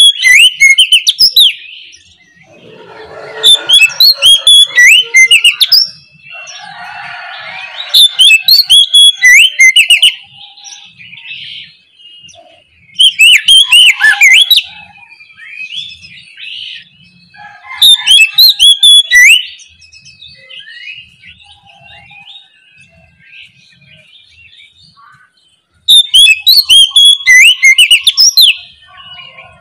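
Oriental magpie-robin (kacer) singing its loud, full song in phrases about two seconds long, repeated every few seconds, with softer twittering between phrases.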